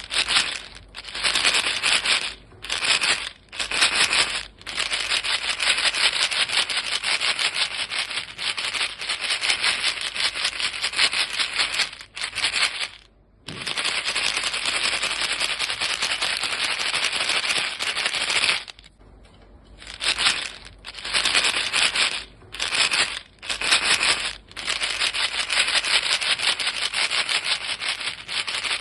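A box of chewing gum pellets shaken by hand, the gum rattling fast against the box in spells of a second or two, then long stretches of continuous shaking, with short pauses in between.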